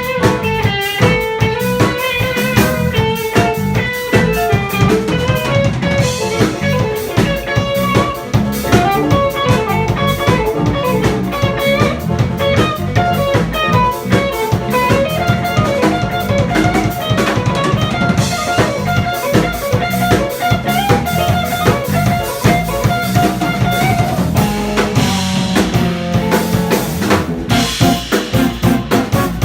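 Live jazz combo of guitar, piano, bass and drum kit playing an instrumental tune, with a fast run of single notes over steady drumming.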